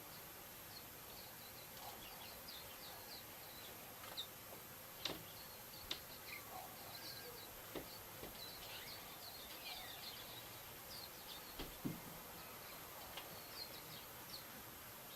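Small birds chirping faintly, many short high calls and a few quick falling notes over a steady outdoor hiss, with three sharp clicks standing out about five, six and twelve seconds in.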